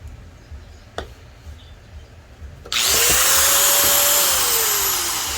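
Makita angle grinder switched on: the motor starts suddenly and spins up to a steady high whine, runs for about a second and a half, then is switched off and winds down with a falling pitch. A single sharp click about a second in, before it starts.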